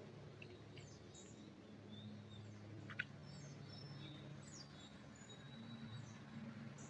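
Faint, scattered chirps and short calls of wild birds over a low steady hum, with one sharp tick about three seconds in.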